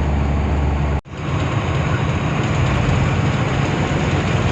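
Tata truck's diesel engine and road noise while driving, a steady low drone. It cuts out abruptly about a second in and comes back as a rougher rumble.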